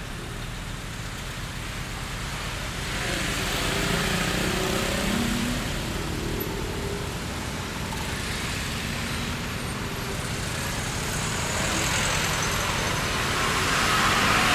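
Street traffic: road vehicles passing with a steady rumble, swelling as one goes by about four seconds in and again louder near the end.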